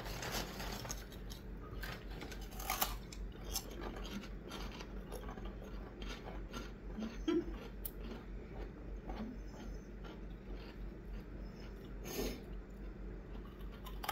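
Pork rinds being chewed by two people: crisp crunches at irregular intervals, a few sharper crackles among them.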